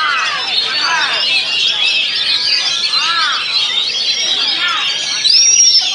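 Many caged songbirds singing at once, a dense overlapping chorus of whistles, chirps and trills, with oriental magpie-robins (kacer) among them. A louder, high rising whistle stands out near the end.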